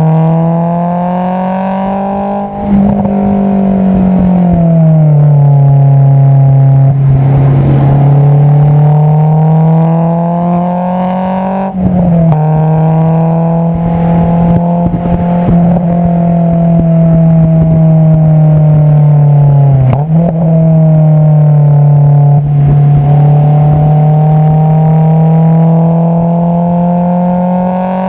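Exhaust note of a Honda S2000's 2.2-litre inline-four through an Invidia Q300 cat-back exhaust, driven under load, its pitch climbing and easing as revs rise and fall. The sound dips briefly about 12 and 20 seconds in.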